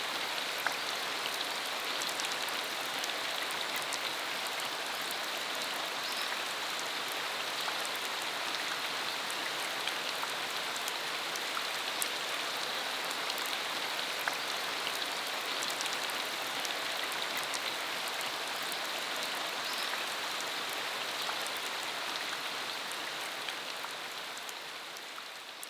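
Steady rain falling on a dirt country road, with many small drop ticks over the hiss, fading out near the end.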